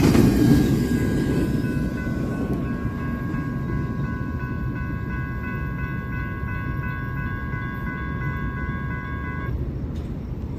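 Train rumbling past, the rumble easing off, while a steady chord of several tones, most likely a multi-chime locomotive horn, is held from about a second in until near the end.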